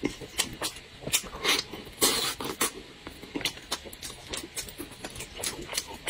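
Close-up chewing and lip-smacking as a man eats braised meat held in his hands: irregular wet smacks and clicks, a few a second, with one louder, longer smack about two seconds in.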